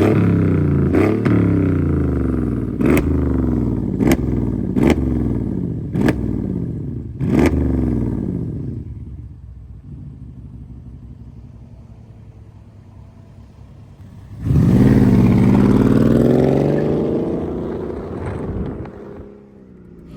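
Mercedes-Benz CLS 550's V8 revved in a run of about six short blips over the first eight seconds, each falling back with a sharp crack. It then drops to a low idle, and about 14 seconds in gives one longer rev that dies away.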